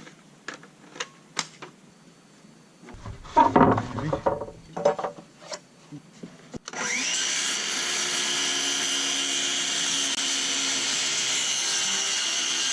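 Knocks and handling of wood, then from about seven seconds in a power tool running steadily on wood for about six seconds before cutting off.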